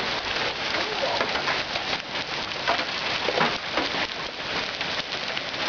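Hail coming down hard: a dense, steady clatter of countless small hailstone impacts.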